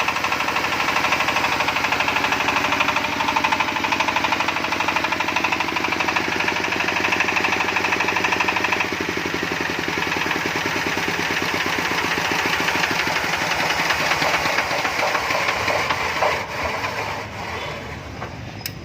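Dong Feng S1115M single-cylinder diesel engine running with a steady, even firing beat. About nine seconds in the sound drops and changes as the engine runs slower, and near the end it grows uneven and fades.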